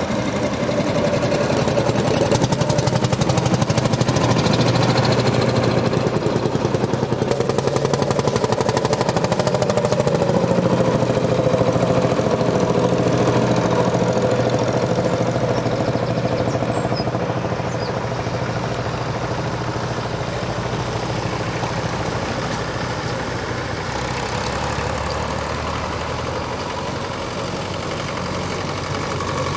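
Tractor engine running at a steady speed with an even, knocking beat, getting a little quieter from about halfway.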